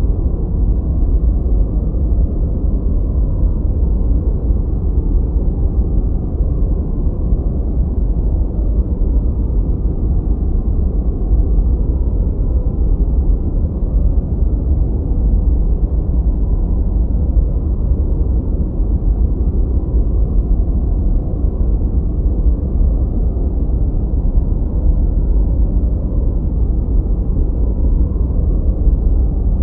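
Continuous synthetic noise track, sold as white noise but deep and rumbling with no high hiss, closer to brown noise. It is steady and even throughout, with no breaks or changes.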